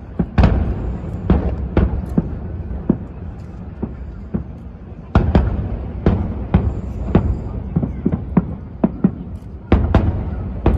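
Fireworks display: aerial shells bursting in a rapid, irregular barrage of sharp bangs over a continuous low rumble, with the densest clusters just after the start, around the middle and near the end.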